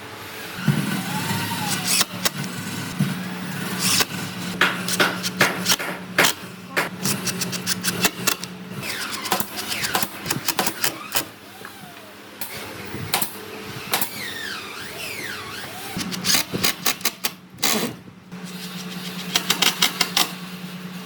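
A small motor humming steadily, starting about a second in, stopping for several seconds midway and then running again, with many sharp knocks and clicks of wood being worked.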